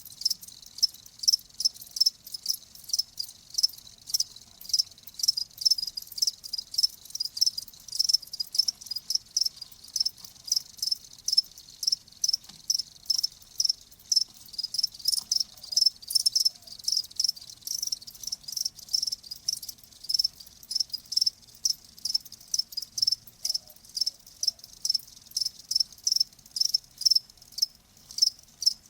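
Cricket chirping: short, high chirps repeated steadily a few times a second.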